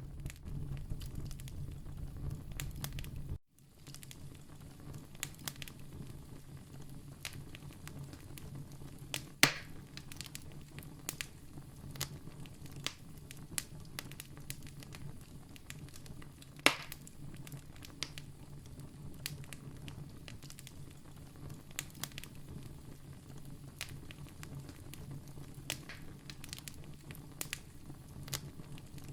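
Campfire crackling steadily, with scattered sharp pops and two louder snaps, one about a third of the way in and one just past halfway. A low steady hum sounds for the first three seconds and cuts off with a brief gap.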